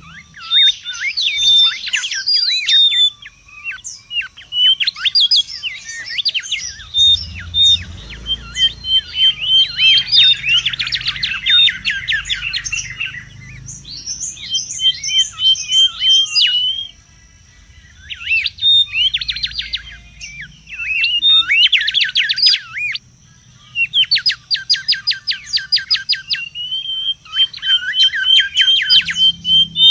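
Mangrove whistler (kancilan bakau) singing busily: fast runs of sharp, rapidly repeated sweeping whistles and strings of even chirps, in phrases broken by a couple of short pauses.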